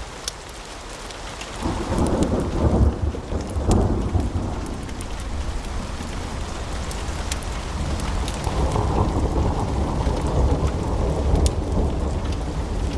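Log fire crackling in a fireplace, with scattered sharp pops throughout. A deep rumble comes in about two seconds in and swells again in the second half.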